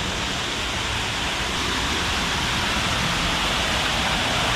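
Waterfall pouring into a pool: a steady, even rush of falling water that grows slightly louder.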